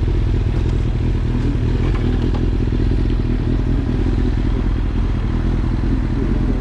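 Suzuki GSX-R motorcycle engine running at a steady speed, with no revving.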